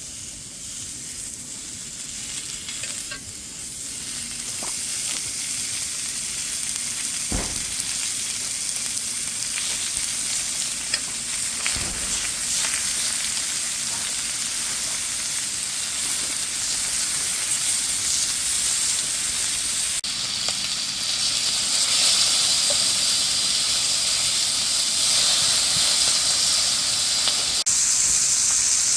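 Food sizzling as it fries, a dense hiss that starts suddenly and grows louder over the first twenty seconds or so, with a couple of soft knocks.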